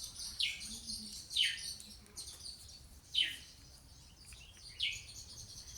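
Outdoor bird chorus: one bird gives four short calls that slide down in pitch, spaced unevenly a second or two apart, over steady high chirping from other small birds.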